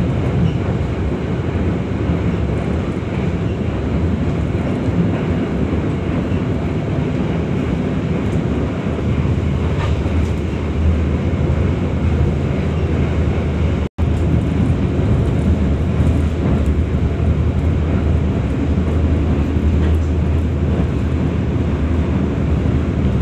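Joglosemarkerto passenger train running at speed, heard from inside a carriage: a steady rumble and rail noise, with a low hum that grows in about a third of the way through. The sound drops out for an instant about two-thirds of the way in.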